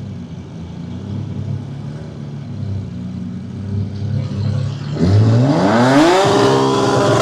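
Drag car engine running at a low steady note, then about five seconds in revving up sharply in one rising sweep and holding at high rpm.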